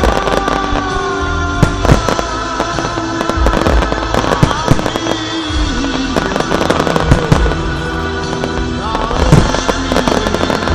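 Fireworks going off in frequent bangs and crackles over loud music with long held notes.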